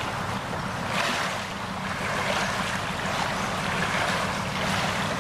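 Wind and moving water, rising and falling in gusts, over a low steady rumble.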